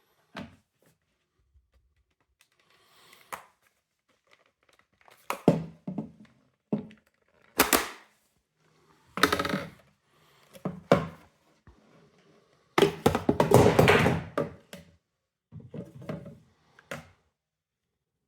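Irregular knocks, clicks and scraping of the plastic parts of a Primaster PMFS37 window vacuum cleaner being handled and taken apart, with a longer rattling scrape about thirteen seconds in.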